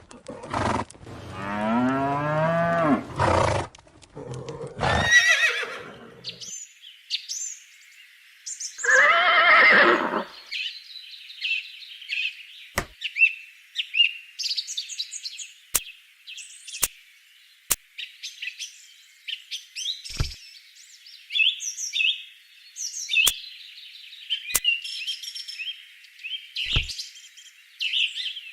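A few loud farm-animal calls in the first ten seconds, then birds chirping steadily for the rest, with a handful of sharp clicks scattered through.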